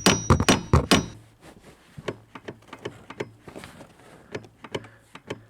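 A rapid run of sharp taps or clicks, about five a second and loud for the first second, then fainter and more spaced out: hand work on a seized part that has begun to loosen.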